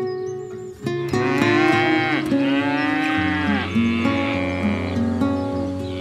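Buffalo calf bawling: two long calls back to back starting about a second in, each rising and then falling in pitch, over acoustic guitar music.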